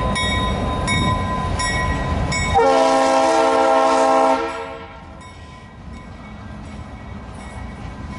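Freight train of covered hopper cars rolling past with a grade-crossing bell dinging steadily. About two and a half seconds in, a locomotive air horn sounds one loud chord-like blast of about two seconds, and after it the rolling noise is much quieter.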